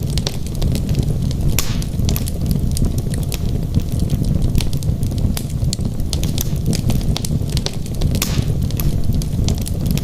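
Wood fire burning in a fireplace: irregular sharp crackles and pops over a steady low rumble of the burning logs, with two longer, louder snaps, one about a second and a half in and one near the end.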